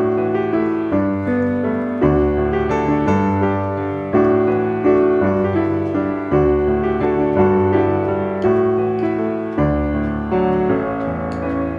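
Background piano music: a slow, gentle piece of struck chords and melody notes that ring and fade.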